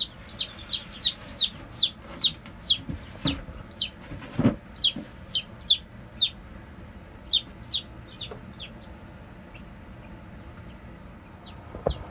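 Baby chicks peeping: a run of short, high, falling chirps, a few a second, that thins out after about six seconds into occasional peeps. Two soft knocks come in the middle.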